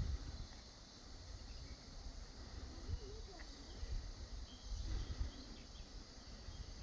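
Outdoor countryside ambience: a faint, steady chirring of insects such as crickets over a low rumble.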